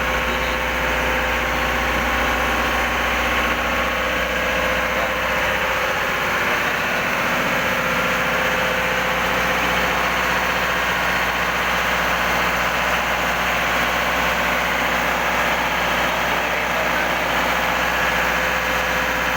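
Engine-room machinery running: a loud, even drone with a steady hum that does not change.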